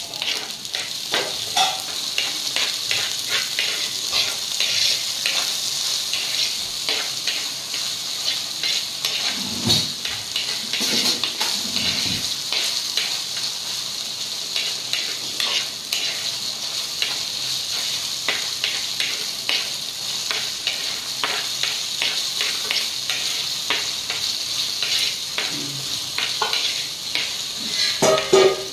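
Tomatoes, green chillies and garlic sizzling in hot oil in a heavy black pot, with a steel spoon stirring and scraping against the pot in frequent short clicks.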